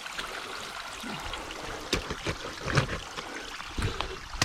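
Small waterfall running into a creek, a steady trickling splash of water, with a few short knocks over the second half.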